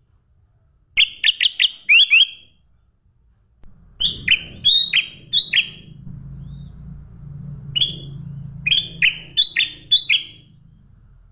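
A songbird calling in bursts of quick, sharp chirps, several in a row, with short pauses between the bursts. A steady low hum comes in underneath about four seconds in.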